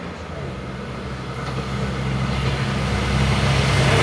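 LINT 41 diesel multiple unit approaching a level crossing, its engine hum and rail noise growing steadily louder.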